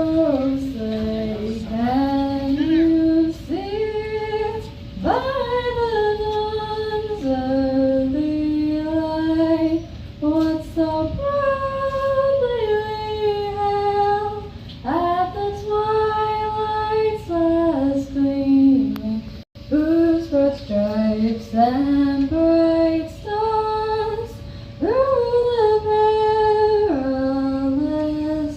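A woman singing a slow melody in long held notes that slide between pitches, phrase after phrase. The sound cuts out for an instant about two-thirds of the way through.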